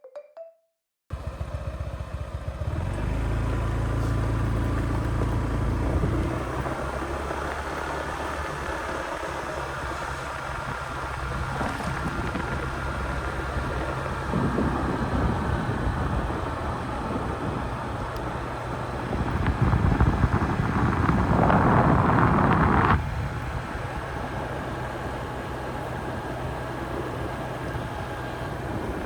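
A Honda ADV150 scooter's single-cylinder engine running steadily while riding, with wind noise on the microphone. It starts about a second in and gets louder for a few seconds about two-thirds of the way through.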